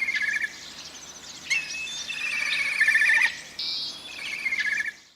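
A kite calling: a repeated phrase in which a high whistled note runs into a quavering trill, coming about every two seconds. It cuts off suddenly near the end.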